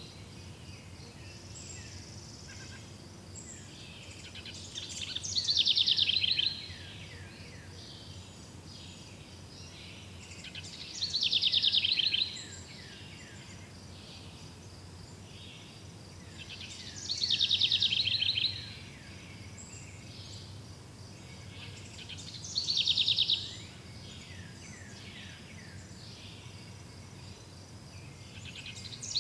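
A songbird repeating a fast, falling trilled song about every six seconds, five times in all, the last just starting at the end. Underneath runs a faint steady high insect-like hum with a low background hiss.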